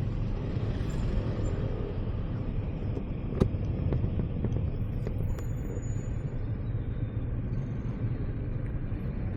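Motorcycle engine running with a steady low rumble, and a single sharp click about three and a half seconds in.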